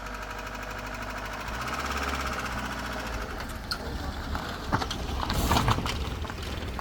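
A small engine running steadily with a fast, even pulse, with a few sharp knocks about two-thirds of the way through.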